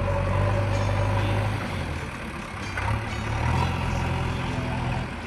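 Heavy diesel engine running under varying load, swelling, easing off about a second and a half in, then swelling again.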